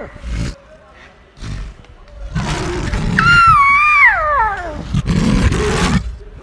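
Big cat roaring and growling in short, rough bursts, with one long high call about three seconds in that slides steeply down in pitch.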